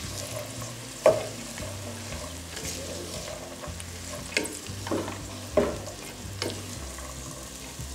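Corn kernels frying in lard in a clay cazuela, sizzling steadily as a wooden spoon stirs them, with a few sharper scrapes of the spoon against the pot.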